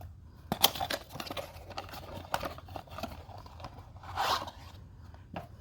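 Packaging of a new HF152 oil filter being handled and opened: tearing, crinkling and scraping with scattered clicks, and a louder rustle about four seconds in.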